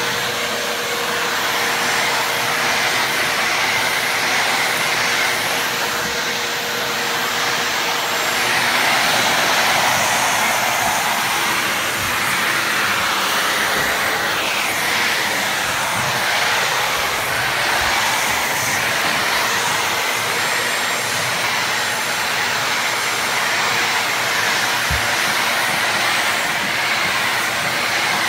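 Household vacuum cleaner running steadily, a loud rushing air noise whose pitch shifts a little now and then.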